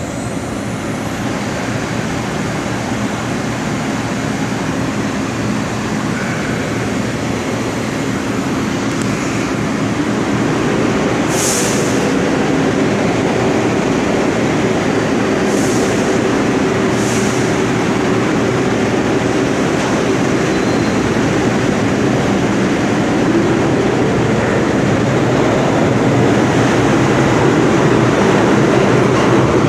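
New York City subway train running through the station, growing steadily louder, with three short high hisses near the middle.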